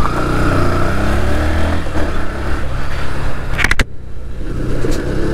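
Yamaha FZS-v3's single-cylinder engine running under way, with wind hiss on the microphone. About three and a half seconds in there is a quick cluster of sharp clicks, after which the hiss drops away while the engine keeps running.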